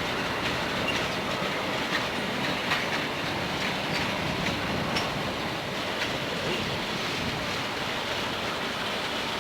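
Freight train cars rolling past, a steady rumble and rattle with the irregular clicking of wheels over the rails.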